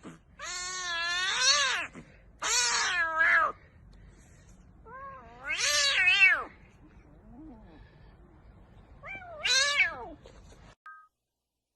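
A cat yowling in four long, drawn-out meows, each bending up and down in pitch, with short pauses between them.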